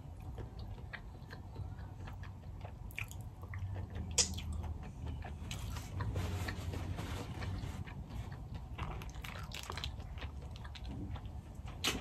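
A person chewing a mouthful of seafood, with wet mouth sounds and soft clicks. There is a sharp click about four seconds in and another near the end.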